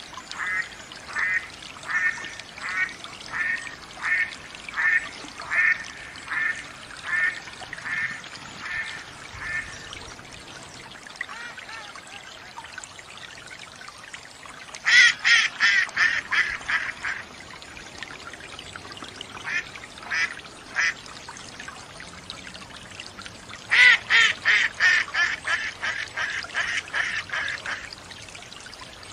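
Duck quacking in runs of repeated calls: a steady series of about a dozen evenly spaced quacks, then two louder, quicker bursts, over a steady trickle of water.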